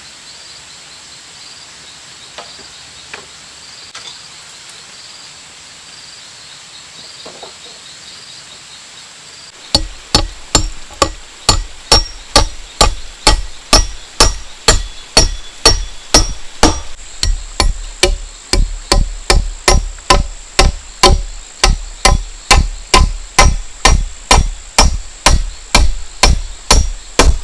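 A hand tool striking bamboo in a steady rhythm, a little over two hard blows a second, starting about ten seconds in. Before the blows, jungle insects chirp and buzz with a steady high whine.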